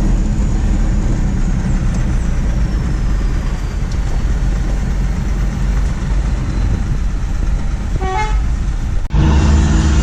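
Euro 4 diesel truck running through an aftermarket racing muffler: a loud, steady, deep exhaust drone. About nine seconds in the sound cuts off abruptly and resumes as a steadier pitched drone.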